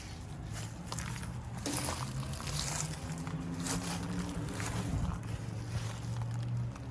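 Steady low hum of central air-conditioner condensing units running, with scattered footsteps and handling noise.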